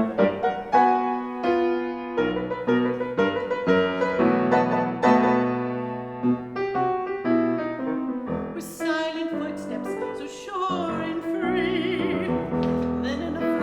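Piano accompaniment playing a run of chords, then an operatic mezzo-soprano voice comes in about nine seconds in, singing sustained notes with wide vibrato over the piano.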